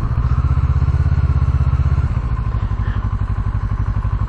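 Kawasaki Ninja motorcycle engine running at low revs with an even, rapid pulse. It eases slightly about two seconds in as the bike rolls slowly over dirt.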